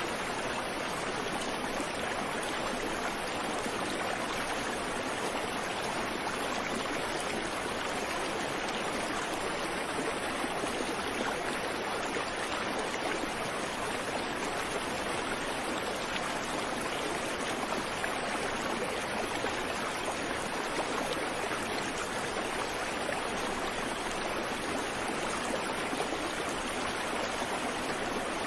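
A creek running steadily over rocks: an even rush of flowing water with no birdsong.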